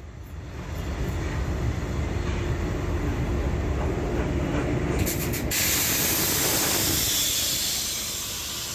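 Gr 640 steam locomotive and its train rumbling along the track, with a loud hiss of steam breaking out suddenly about five seconds in and easing off after a couple of seconds.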